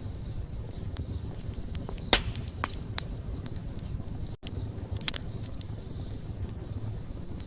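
Wood fire burning, a low steady rumble with scattered sharp pops and crackles, the loudest a little after two seconds in. The sound cuts out for an instant near the middle.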